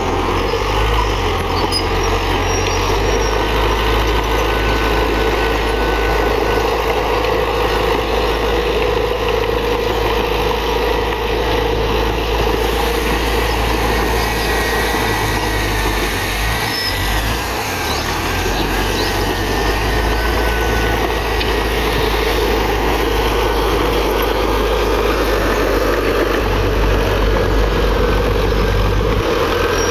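Heavy diesel engine of earthmoving machinery running steadily under load, dipping briefly about halfway through.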